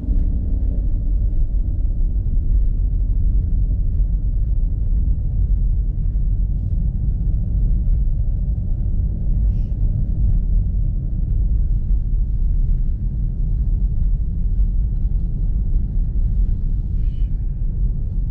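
Steady low rumble of a car driving on a snowy road, heard from inside the cabin: engine and tyre noise with no change in pace.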